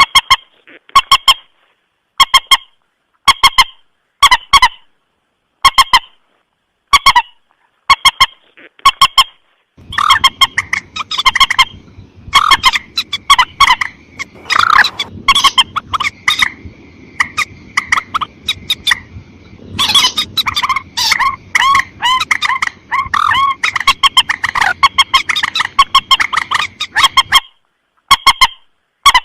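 Mandar sawah (rail) calls from a bird-lure recording: short honking calls repeated about once a second. About ten seconds in they swell into a dense chorus of overlapping calls over a low hiss, then thin out to single calls again near the end.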